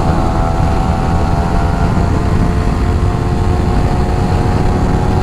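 Yamaha R15 v3's single-cylinder engine running hard through its modified stock exhaust at road speed, with wind rush on the microphone. The engine note changes just at the start, as on a gear shift, then falls slightly.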